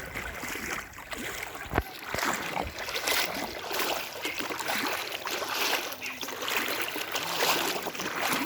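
Floodwater splashing and trickling in uneven swells, with a single sharp knock a little under two seconds in.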